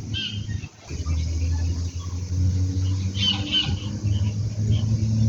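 Birds chirping in short high calls, about twice, over a steady low hum.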